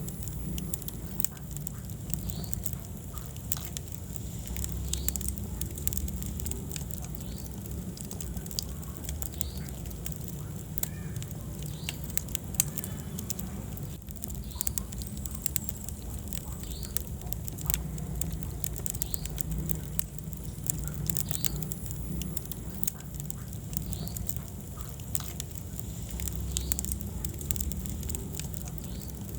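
Wood fire in a fireplace crackling and popping, with irregular sharp snaps over a steady low rumble of the flames. A few faint, short squeaks come through between the pops.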